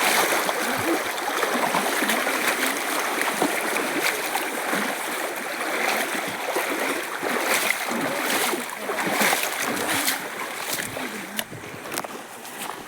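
Water running and splashing, with irregular sharp splashes over a steady rush.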